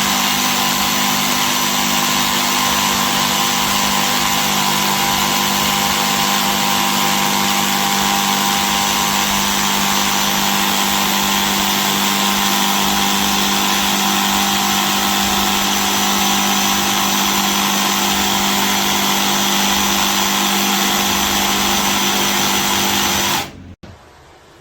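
DEWALT DCS334B 20V cordless brushless jigsaw running steadily at a constant speed with a level motor whine, then stopping abruptly near the end.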